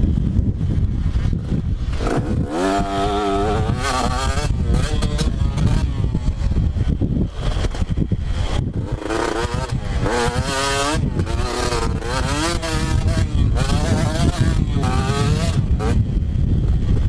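Two-stroke motocross bike engine being ridden hard, its pitch climbing and dropping again and again in quick surges as the throttle is worked, over a heavy low rumble.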